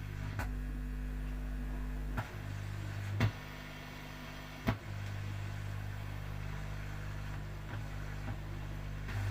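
Mains hum from a home-built audio amplifier through its speaker: a steady low buzz, broken by a few sharp clicks about half a second, two, three and four and a half seconds in, where the hum drops and comes back. The hum is caused by the amplifier not being earthed, as the builder later finds.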